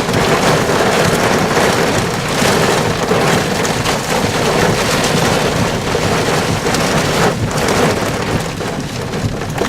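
Rear-flank downdraft winds driving heavy rain near a tornado: a loud, constant rush of wind and rain, broken by brief gusts and spatters.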